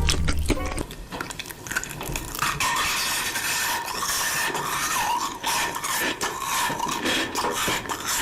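Cutlery clicking and scraping against dishes, a run of short clicks and scrapes with eating noises.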